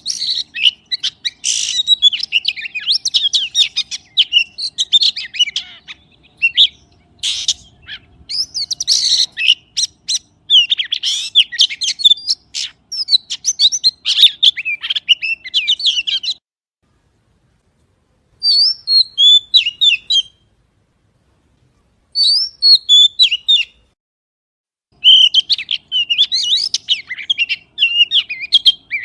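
Oriental magpie-robin singing a fast, varied run of chirps and whistles. After about 16 seconds it falls silent twice, with two short phrases in between, then resumes near the end.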